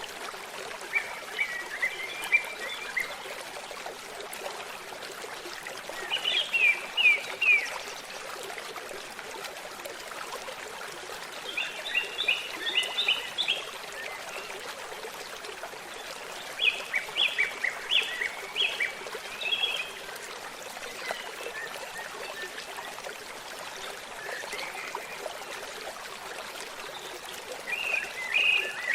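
Babbling stream running steadily, with a songbird singing short phrases of quick chirps every four to six seconds.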